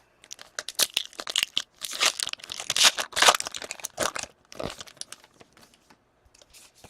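Plastic wrapper of a 2017-18 O-Pee-Chee hockey card pack being torn open and crinkled by hand, with a run of irregular tearing and rustling that dies down to faint rustles near the end.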